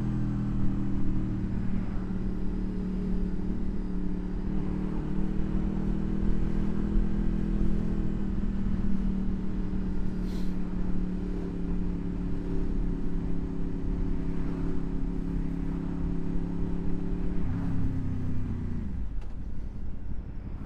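Honda VFR800 V4 engine running at a steady pace under way, with road and wind noise. The note shifts a couple of times, then the revs fall away near the end as the bike slows.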